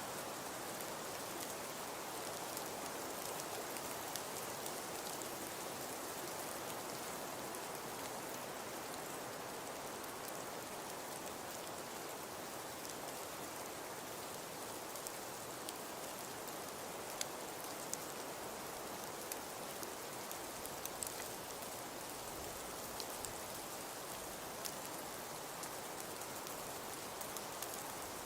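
Crackling fireplace: a steady hiss with scattered sharp pops and crackles, more of them in the second half.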